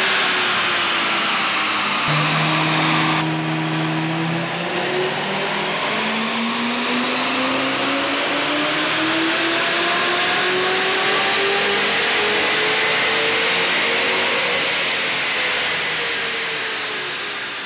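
Lamborghini Gallardo's 5-litre V10 in stock form making a full-throttle dyno power run: the engine note climbs steadily through the revs for about ten seconds, then drops away as the throttle comes off near the end.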